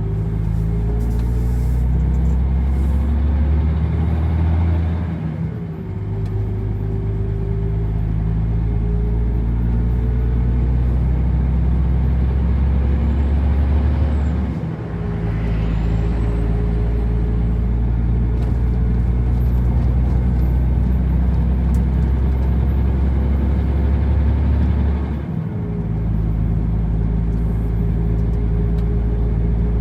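Truck's diesel engine pulling under way, its note slowly rising and then dropping with a brief dip three times, about 5, 15 and 25 seconds in, as the gearbox shifts up.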